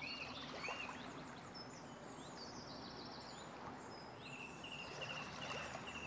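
Birds singing over a faint outdoor hiss. Arched whistled notes come twice in the first second, then a run of short downward-sweeping notes, and near the end a quick string of short chirps.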